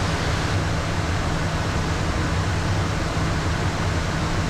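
Steady cockpit noise of a Beechcraft Premier 1A business jet in descent: a constant rush of airflow with a low, even hum underneath.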